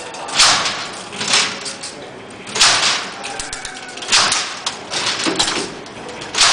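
Babbage Difference Engine No. 2 being hand-cranked: a steady metallic clatter of gears and columns, with six loud clanks coming every second or so as parts engage and release.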